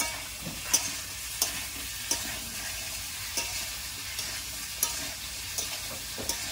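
Potato pieces sizzling steadily as they fry in oil in a kadai, with a metal spatula stirring them and clinking against the pan about once a second.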